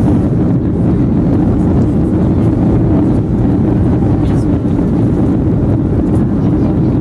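Steady, loud rumble inside a Boeing 737-500 cabin: the CFM56 engines and rushing airflow heard from a forward window seat, even throughout.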